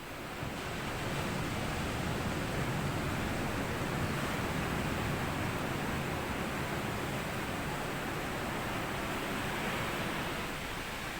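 A wave washing up onto a sandy beach: a long rush of surf that builds about half a second in and eases off near the end.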